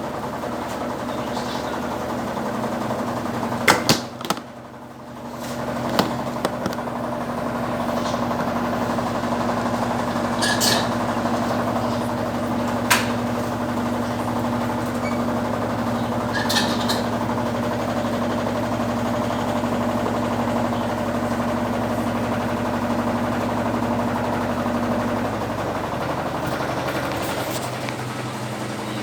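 Electrolux LTE12 top-loading washing machine running, with a few sharp clicks and a brief lull about four seconds in, after which it starts up again with a steady hum and a constant low tone.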